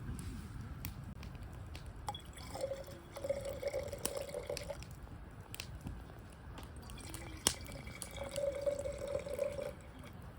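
Liquid being poured into a container twice, each pour lasting about two seconds, with scattered sharp clicks in the background.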